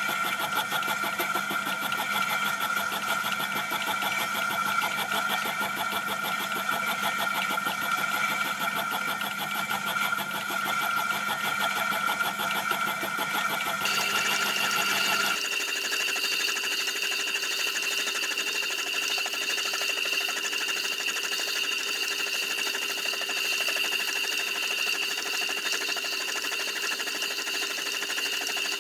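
A power machine tool running steadily with a constant whine. About halfway through, its tone changes abruptly to a higher pitch.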